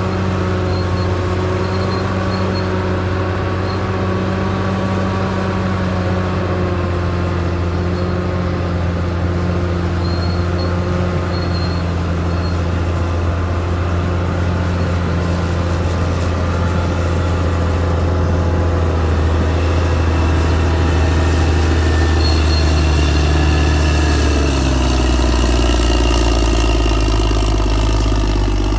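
Caterpillar D6R XL bulldozer's diesel engine running steadily, its pitch shifting and dropping lower about three-quarters of the way through.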